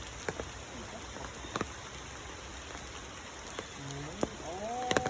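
Steady rain falling, with a few sharp drips or taps. Near the end a short voice comes in, its pitch rising and falling.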